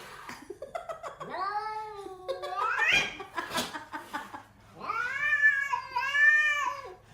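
A cat yowling: two long, drawn-out calls, the first rising in pitch at its end, the second arching up and back down.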